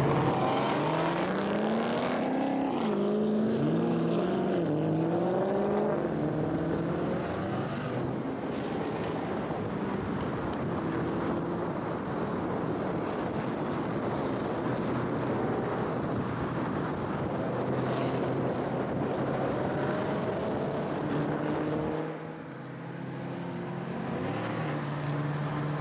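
Dodge Challenger 392 Scat Pack's 6.4-litre HEMI V8 pulling through the gears: its pitch climbs and drops several times in the first few seconds. It then settles into steady cruising under road and wind noise. The engine's pitch comes back up near the end.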